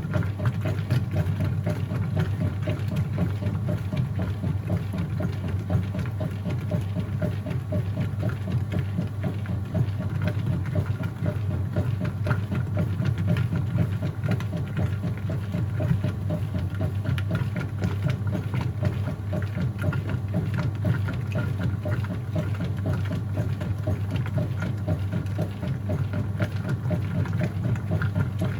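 Whirlpool top-load washing machine running mid-cycle: a steady motor hum with a fast, even churning rattle over it.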